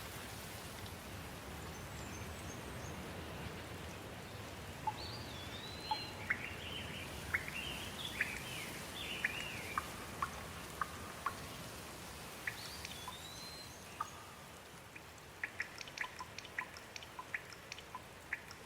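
Steady rain falling, with birds calling through it in whistled, rising-and-falling chirps. Near the end comes a quick run of water drops plinking.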